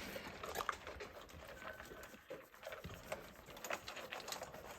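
Dogs chewing and crunching their food: a faint, irregular patter of small crunches and clicks.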